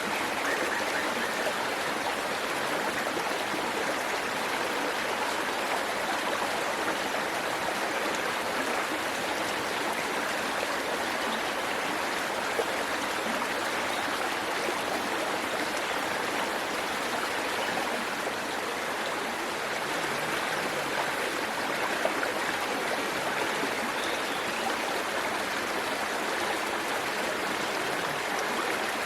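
Waterfall water rushing steadily, an even, unbroken wash of sound.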